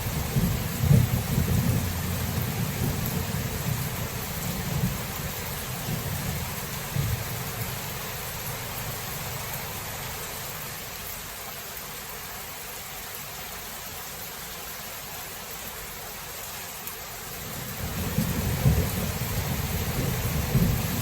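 Thunderstorm: steady rain with low rolling thunder. The thunder rumbles through the first several seconds, dies away to rain alone midway, and rolls in again near the end.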